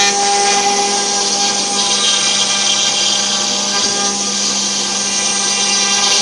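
CNC wood router's spindle running steadily while machining wood: a constant whine of several steady tones under a strong high-pitched hiss.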